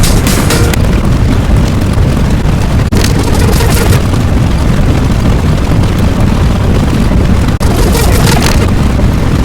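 A loud, continuous rumbling noise, heaviest in the low end, broken by two brief dropouts about three seconds and seven and a half seconds in.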